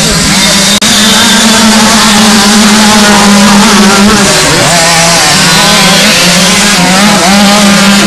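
Several 50cc two-stroke kids' motocross bikes (KTM SX 50 automatics) running hard on the track, a loud steady high drone with engines now and then rising in pitch as riders accelerate.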